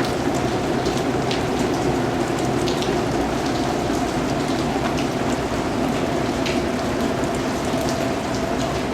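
Steady rain falling on a surface, a dense even patter with scattered individual drips standing out above it.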